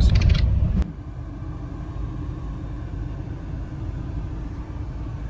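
Steady low rumble of a car driving, heard inside the cabin: road and engine noise. A louder rumble cuts off abruptly just under a second in, leaving a quieter, even drone.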